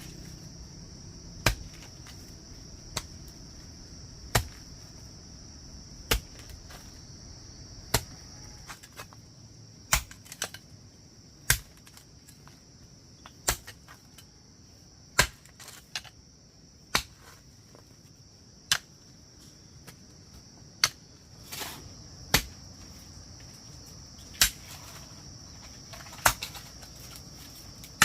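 Repeated sharp knocks of a hand tool striking, about one every two seconds, over a steady high-pitched insect drone.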